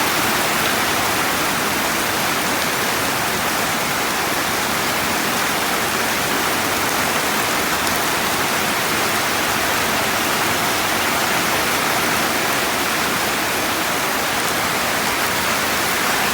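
Heavy rain falling in a steady downpour, an even rushing hiss with no break.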